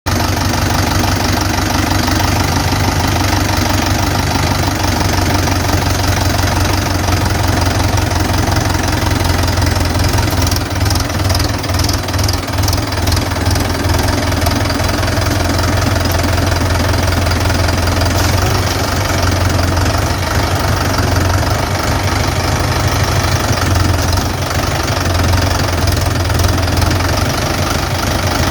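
Mahindra 575 DI tractor's four-cylinder diesel engine running steadily with a deep, even hum, with a few seconds of rattling clicks partway through.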